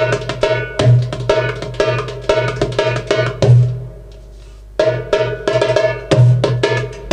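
Darbuka played by hand in fast rolling patterns of sharp rim strokes, punctuated by deep, booming bass strokes. The playing stops for about a second just before the middle, then starts again.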